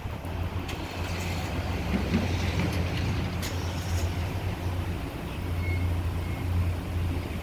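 Christ Vitesse rollover car wash machine running with a steady low mechanical hum, a light hiss and a few sharp clicks.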